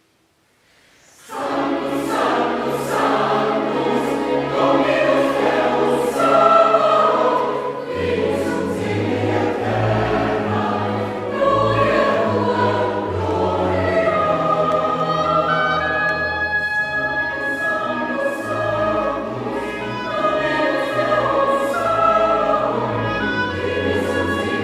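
Mixed choir singing with a chamber orchestra in a classical Mass setting, entering together suddenly about a second in after a moment of silence and continuing with held chords.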